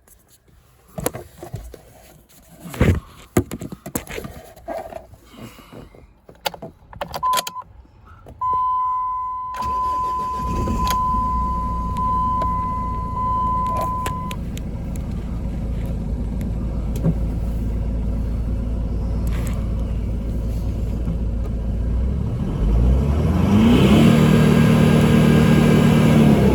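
Jeep Cherokee 2.5 CRD common-rail diesel engine: after some clicks and knocks and a steady beeping warning tone, it starts about ten seconds in and idles steadily. Near the end it is revved once, held up for a couple of seconds, then drops back toward idle.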